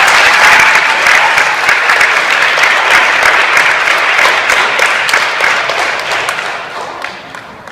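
Audience applauding, many people clapping at once; the applause dies away over the last couple of seconds.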